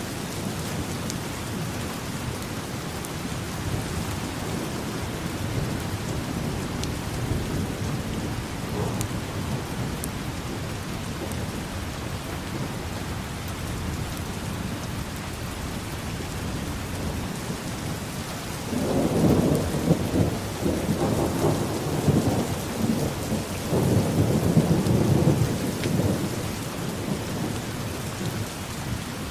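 Steady rainfall with thunder rumbling. A louder rolling rumble comes in several surges about two-thirds of the way in.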